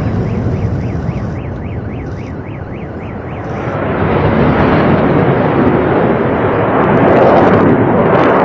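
Jet aircraft noise, a loud rushing roar that swells to a peak near the end. For the first three seconds or so a rapid chirping tone repeats about four times a second over it.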